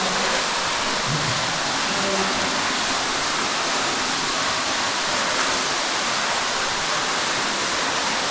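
A large underground waterfall crashing down inside a cave: a steady, loud rush of falling water.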